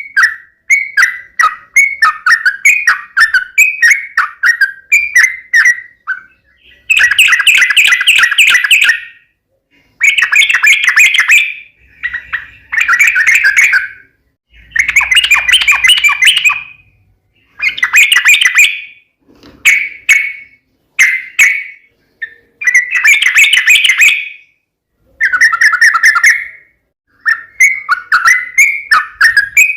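Yellow-vented bulbul (trucukan) singing loudly: bubbly, chattering phrases in bursts of about two seconds with short pauses between them, opening and closing with quick runs of short chirps.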